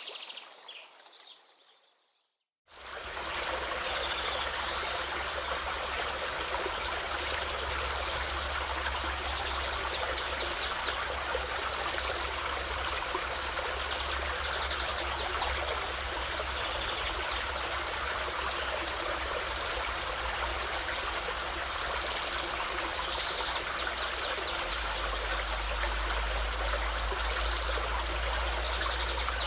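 River water flowing steadily, with a low rumble underneath that grows louder near the end. It begins about two and a half seconds in, after an earlier stream recording with a few bird calls fades out into a moment of silence.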